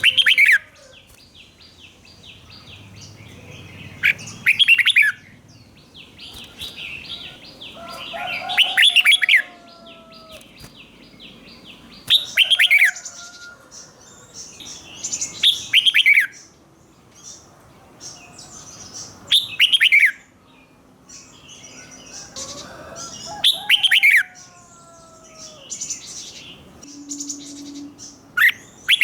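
Red-whiskered bulbul singing its loud, short whistled phrases over and over, one every three to four seconds. A steady high buzzing trill runs behind the song for the first ten seconds or so.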